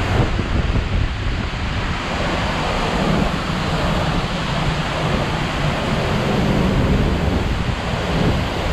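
Large waterfall pouring heavily, a loud, steady rush of water strongest in the low end, with wind buffeting the microphone.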